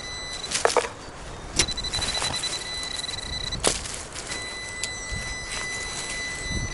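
Metal detector giving a steady, high-pitched tone that sounds and breaks off three times, the signal of metal under the coil. A few sharp knocks come in between, the loudest about a second in and near the middle.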